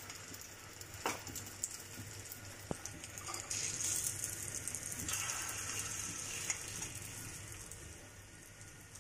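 Egg-dipped shami kebabs sizzling in shallow oil on a tawa: a steady frying hiss with a few sharp crackles, easing off a little near the end.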